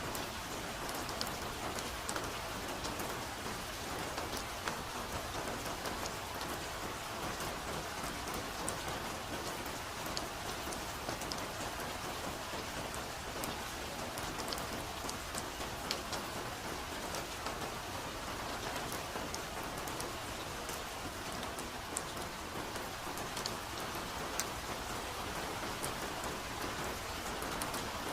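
Steady soft rain falling in a forest: an even patter with many separate drops ticking sharply.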